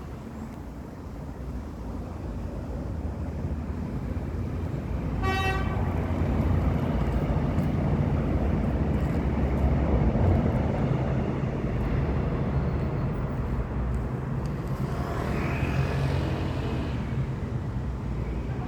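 Road vehicle rumble that builds up over the first few seconds and stays steady, with a short horn toot about five seconds in.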